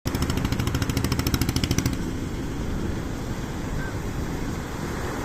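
Fishing boat engine running, with a fast, even pulse for about the first two seconds that then gives way to a steadier rumble.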